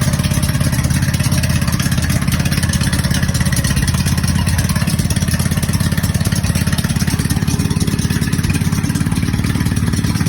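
Pump boat's engine running steadily, a fast even chugging with no change in speed.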